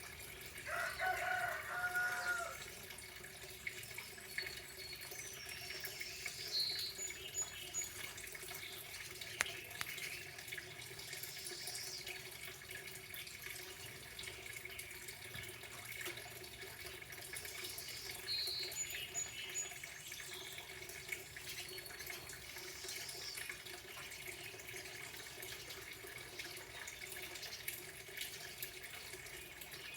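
Steady trickle of running water, with birds calling over it: a short pitched call about a second in and a short high song phrase repeated a few times.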